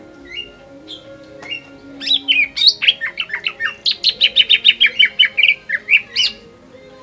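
Cucak ijo (green leafbird) song: a few scattered chirps, then a loud, fast run of sharp repeated notes for about four seconds before it stops near the end.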